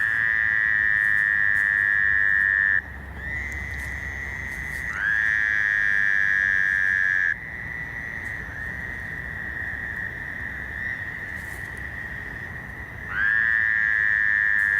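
Fowler's toads calling at night in a breeding chorus. Three loud, long calls of about two and a half seconds each, each rising briefly in pitch at its start, come at the start, about five seconds in and near the end. Fainter calls from other toads carry on between them.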